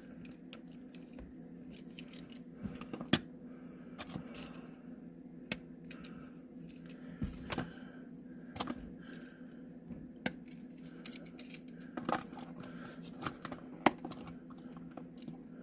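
Small plastic and metal clicks and taps at irregular intervals as tires and parts are pressed onto a Majorette die-cast toy car, over a steady low hum.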